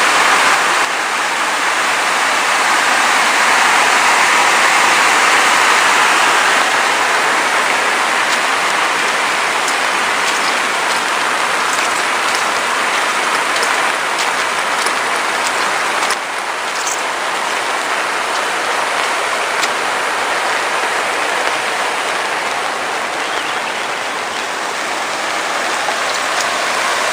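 Rain falling steadily, with scattered drops ticking over the hiss.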